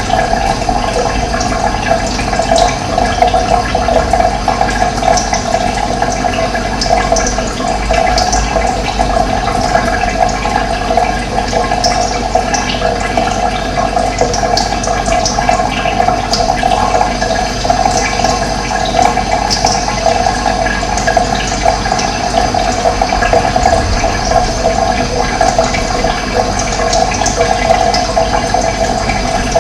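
Running water flowing steadily without a break, with brief high bird calls scattered through it.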